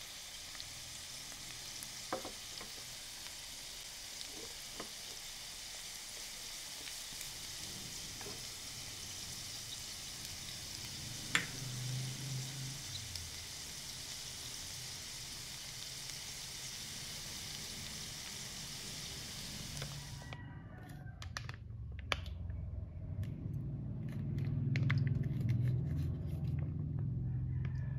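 Garlic, onion, diced potato and luncheon meat sizzling in oil in a frying pan, with a few light scrapes and clicks of a silicone spatula stirring them. About two-thirds of the way through the sizzle cuts off suddenly, giving way to soft handling sounds and light clicks of a spoon over a ceramic bowl.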